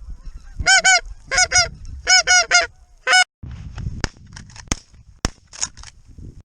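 Wild geese calling: high, arched calls in quick groups of two or three for about three seconds, then stopping. A few sharp clicks follow in the second half.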